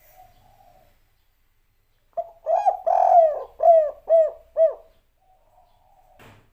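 Spotted dove (tekukur) cooing one full phrase: a short opening note and a longer rolling coo, then three short, evenly spaced coos. The three closing notes are the 'kuk 3' ending that keepers prize. A faint coo comes before and after the phrase, and a sharp click sounds near the end.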